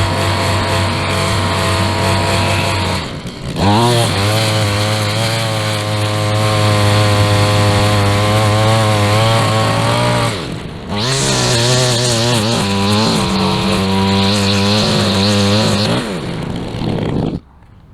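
Small petrol engine running at high, steady speed. Twice it briefly drops in speed and revs back up, and the sound cuts off suddenly near the end.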